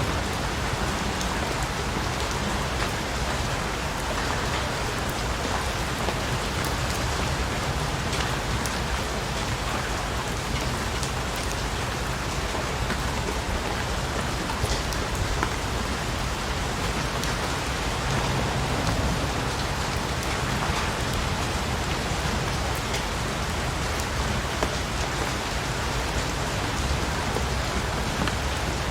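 Steady rain falling on surfaces: a dense, even hiss with scattered individual drop ticks.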